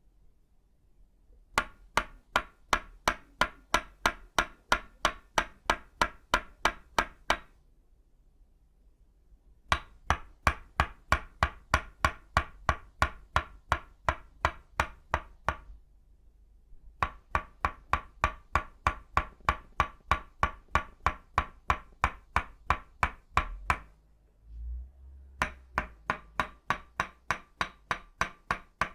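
Tok sen mallet striking its wooden stake, both of itauba wood, tapping out a steady rhythm of about three strikes a second. Each strike rings with a wooden pitch. The taps come in four runs broken by short pauses of about two seconds, with one soft low thump in the last pause.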